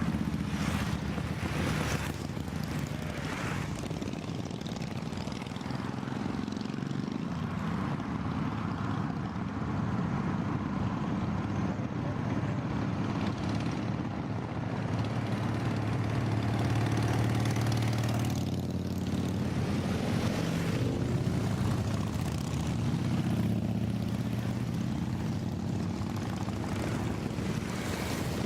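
Steady drone of a vehicle engine and road noise while driving uphill, with motorcycles passing in the opposite direction now and then, briefly swelling the sound near the start and again about two-thirds of the way through.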